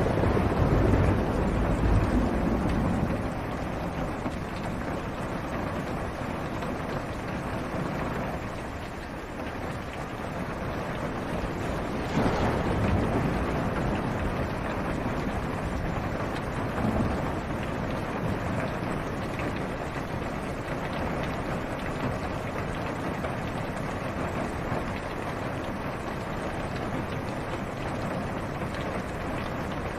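Steady rain on a car's roof and windshield, heard from inside the car, with low rolls of thunder in the first few seconds and again about twelve seconds in.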